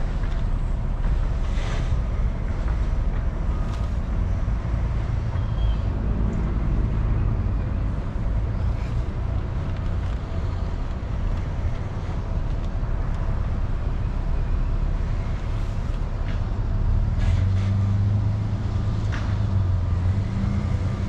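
Car engine idling with a steady low rumble and a few faint clicks; a deeper engine hum swells near the end.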